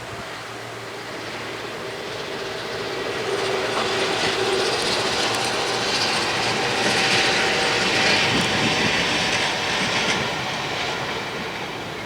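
A train passing by, its wheels running on the rails. The sound builds to a peak in the middle and then fades toward the end.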